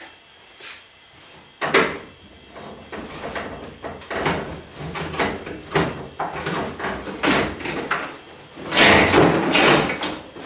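Metal garage door hardware clattering and clanking as torsion-spring parts are worked on: a quick, irregular run of knocks and rattles that starts about a second and a half in and is loudest near the end.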